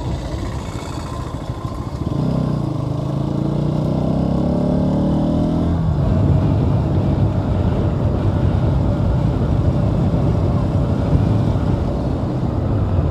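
Bajaj Pulsar NS200's single-cylinder engine pulling away and accelerating, rising in pitch for about four seconds from around two seconds in, then running steadily at speed. Under it is a steady low rush of wind noise.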